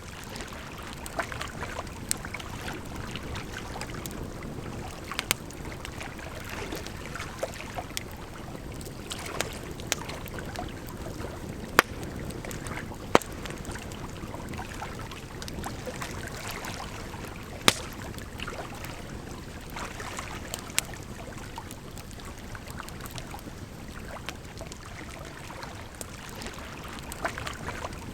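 Campfire crackling, with sharp irregular pops over a steady rush of flowing water; a few louder pops come near the middle.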